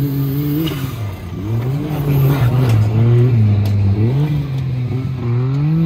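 Suzuki Jimny trial competition vehicle's engine revving up and down. The pitch drops about a second in, stays low for a few seconds, then rises again after about four seconds.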